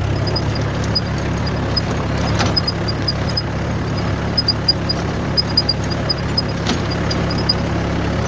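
Tractor engine running steadily at a low, even pitch, with light rapid ticking above it and two sharp knocks, one about two and a half seconds in and one near seven seconds.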